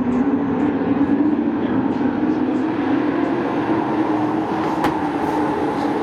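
Field of sport race trucks running at speed around a short oval, their engines holding a steady, loud note that drifts slightly in pitch, with a sharp click about five seconds in.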